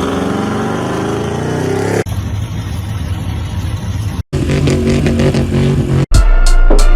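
Lifted trucks' engines revving through loud exhausts, the pitch climbing and falling, in a quick run of separate clips that change abruptly every couple of seconds. The loudest clip, near the end, has a heavy deep rumble.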